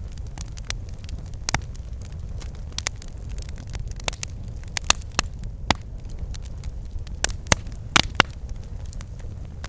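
Campfire crackling: irregular sharp pops and snaps, a few louder ones between about seven and eight and a half seconds in, over a steady low rumble.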